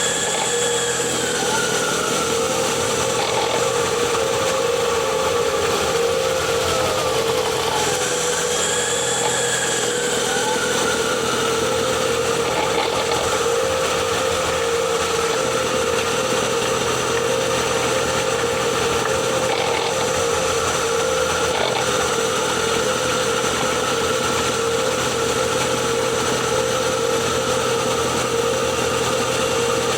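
Ford Kuga PHEV's HF45 e-CVT transmission running, heard at the gearbox: a steady whine with higher whirring tones that rise and fall twice in the first ten seconds. It is the odd rotational noise that appeared after a flywheel change, which the owner suspects comes from motor generator 1.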